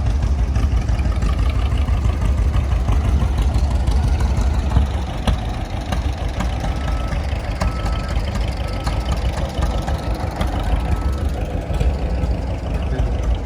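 Old engine running steadily with a rapid, even chugging, a little louder for the first five seconds or so and then settling slightly quieter.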